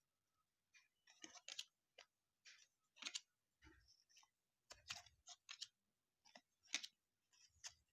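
Faint clicks and rustles of baseball cards being handled and flipped through one by one, about a dozen short sounds.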